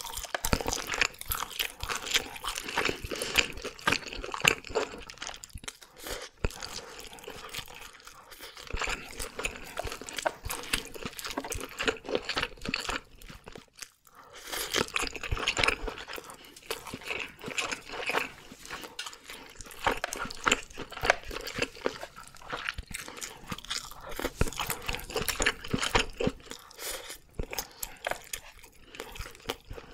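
Close-miked ASMR eating sounds: a person chewing oven-grilled red sea bream, a dense run of small mouth clicks and smacks, with a brief pause about halfway through.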